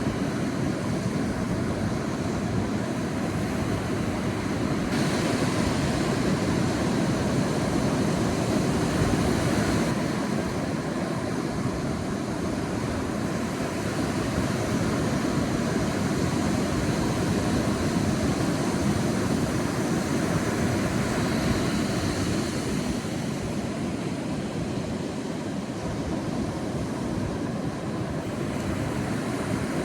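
Sea waves washing onto a beach, a steady rushing surf that swells and eases, louder about five seconds in and again later.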